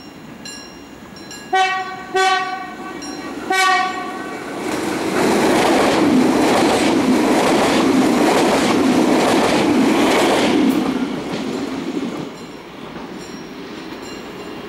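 Siemens Desiro class 460 electric multiple unit sounding its horn in three short blasts, then passing close by with a loud rush of wheels on rails that fades away near the end.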